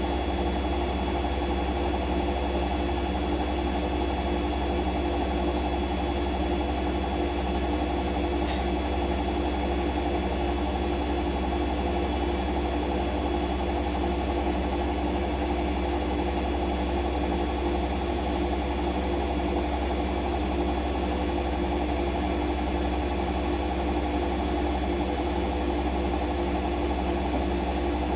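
Siemens front-loading washing machine in its spin cycle, the motor and drum running at a steady speed with a constant low hum and vibration.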